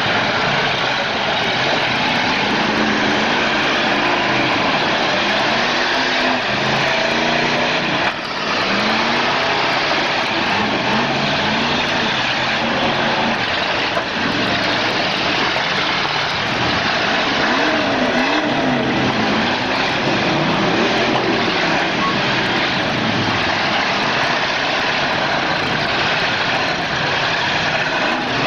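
Demolition derby cars' engines revving hard, many overlapping rises and falls in pitch over a dense wash of engine noise.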